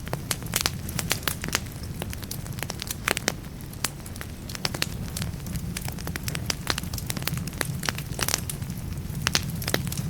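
Wood fire burning in a fireplace, crackling with irregular sharp snaps, several a second, over a steady low rumble.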